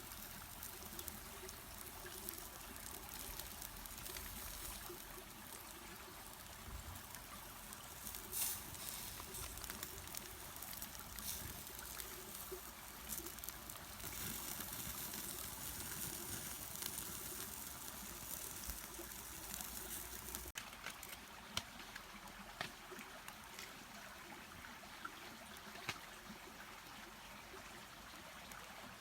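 A mountain stream running steadily, with a few faint knocks over it; the sound shifts slightly about two-thirds of the way through.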